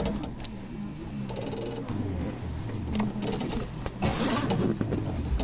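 Steady mechanical running of a stopped electric train's onboard equipment inside the passenger car, with scattered clicks.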